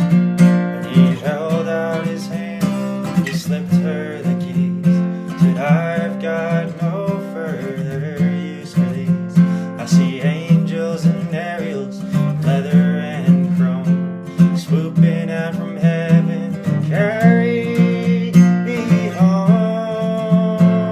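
Acoustic guitar playing an instrumental passage: a steady pulsing bass under a changing melody line.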